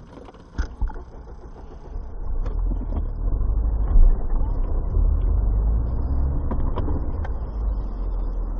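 Low rumble of a moving car, steady after the first couple of seconds, with scattered short knocks and clicks and one louder knock about halfway through.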